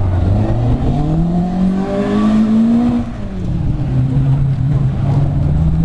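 Rally car engine accelerating hard past, its pitch climbing for nearly three seconds, then dropping suddenly at a gear change and pulling on at a steady pitch.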